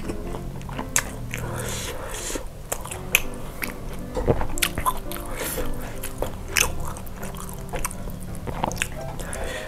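Close-miked chewing of grilled ribs in sambal: wet mouth clicks and smacks throughout, over soft background music.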